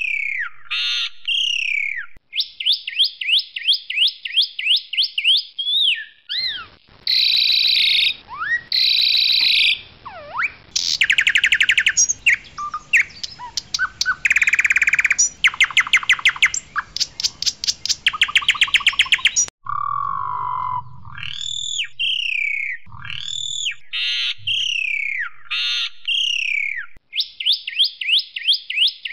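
Asian pied starling (jalak suren) singing a loud, varied song. Repeated downward-sweeping whistles and fast runs of short chirps come near the start and end, with harsh, buzzy chattering and rapid trills through the middle.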